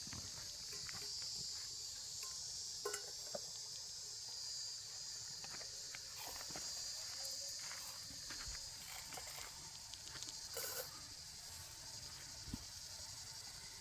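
Steady high insect chorus, with a few scattered clicks and knocks, the loudest about three seconds in and just before eleven seconds in.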